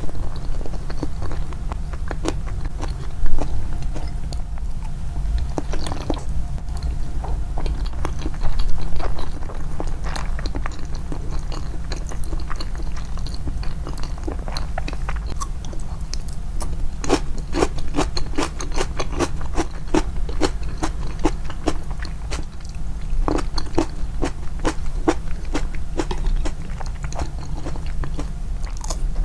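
Close-miked chewing and biting, with runs of crisp crunching bites at about three to four a second in the second half, over a steady low hum. One sharp knock, the loudest sound, comes about three seconds in.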